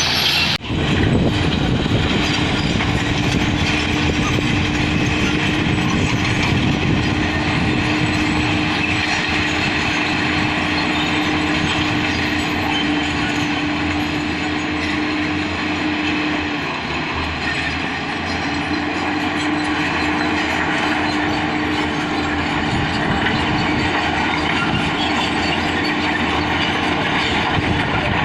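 Heavy earthmoving machinery working: steady diesel running noise with a constant tone that drops out for a couple of seconds past the middle, then returns.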